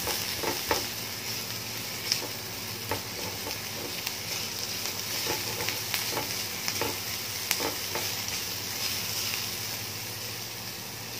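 Chopped garlic, shallots and ginger sizzling in hot oil in a non-stick frying pan, being fried until fragrant. A spatula stirs them, scraping and tapping the pan now and then.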